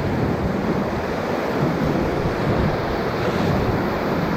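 Steady rush of whitewater rapids around a raft, with some wind buffeting the microphone.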